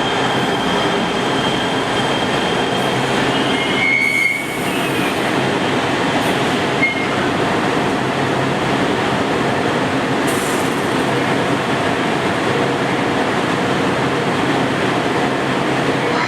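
Metro rail train running through an underground station with a steady rumble of wheels and motors, and a high wheel squeal that stops about four seconds in. Short squeaks follow later.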